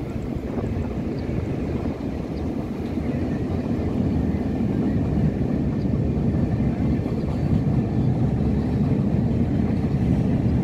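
Freight train's hopper wagons and brake van rolling past, a low steady rumble mixed with wind buffeting the phone's microphone. The sound grows louder about halfway through.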